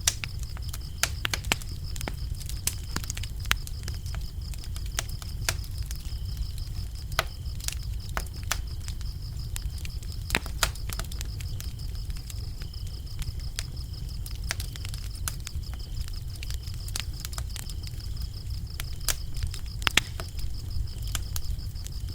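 Wood fire crackling, with irregular sharp pops and snaps over a steady low rumble of the flames. Crickets chirp steadily in the background as a continuous high trill.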